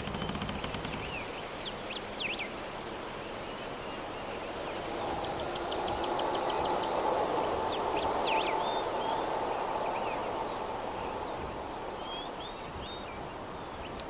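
Soft breeze blowing steadily, swelling for a few seconds in the middle, with small birds chirping over it: a few quick chirps, then a rapid trill of about a dozen notes, then more chirps.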